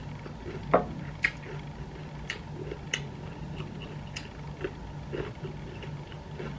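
Close-up eating sounds: chewing and small mouth smacks as food is eaten by hand, with a scattering of short sharp clicks over a steady low hum.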